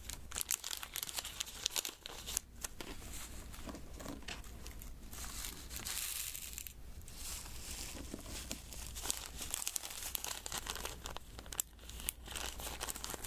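Diamond-painting materials being handled up close: crinkly plastic rustling mixed with many small, irregular clicks of resin drills, busier about six seconds in.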